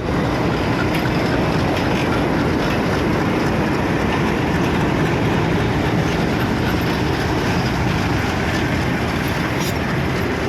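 KSR Bengaluru Express train running along the track: a loud, steady rumble and rush of wheels on rails.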